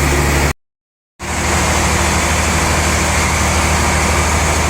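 Sawmill machinery running steadily with a deep hum and a wash of mechanical noise. It drops out to silence for under a second about half a second in, then carries on unchanged.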